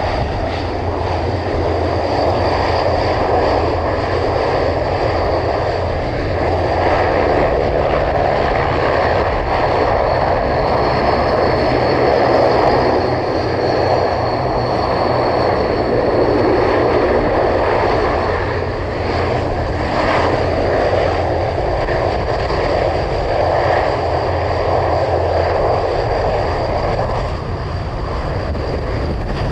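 Aircraft engines running loud and steady: a broad roar with a steady high whine over it.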